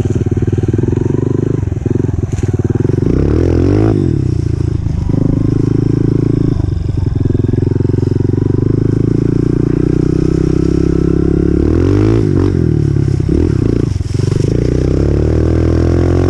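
2018 Honda CRF125F's single-cylinder four-stroke engine running as the dirt bike is ridden, the revs rising and falling several times with the throttle.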